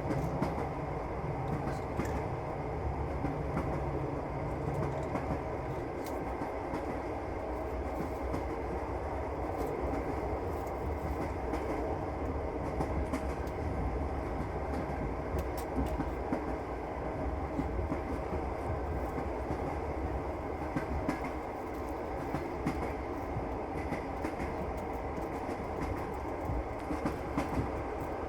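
Passenger train running along the track, heard from inside the carriage: a steady rumble with the clickety-clack of the wheels and scattered sharp clicks.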